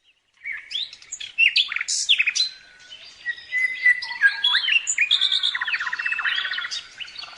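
Birdsong: a fast, varied run of chirps, whistles and rapid trills that starts abruptly about half a second in, out of silence.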